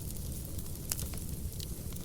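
Wood fire burning in a fireplace: a low steady rumble and hiss with scattered sharp crackles and pops from the logs, one louder pop just before the middle.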